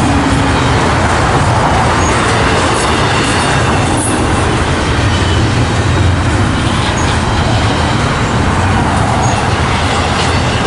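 Double-stack intermodal freight train's well cars rolling past: a loud, steady rumble and clatter of steel wheels on rail.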